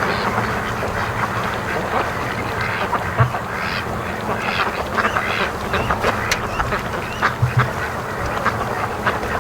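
Domestic ducks quacking repeatedly over steady wind noise on the microphone, with a few low thumps.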